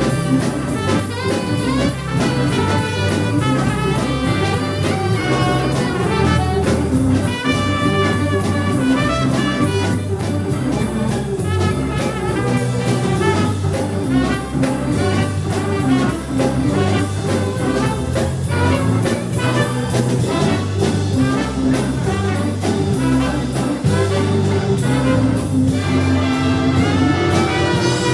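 Live jazz band playing an instrumental tune, with horns carrying the melody over bass and drums keeping a steady beat.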